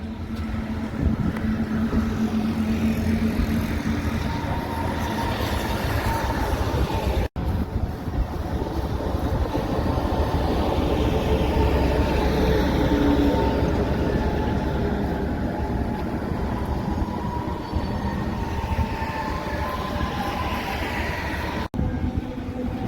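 Heavy trucks driving past, with a steady engine rumble and tyre and road noise and some slowly falling tones as they go by. The sound breaks off for an instant twice, about a third of the way in and near the end, where the clips are cut together.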